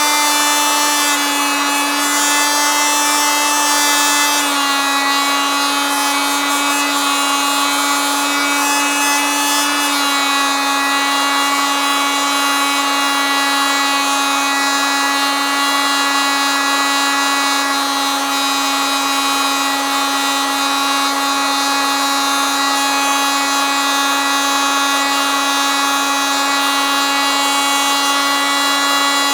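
Oscillating multitool running continuously: a steady drone with many overtones whose pitch shifts slightly a few times in the first ten seconds.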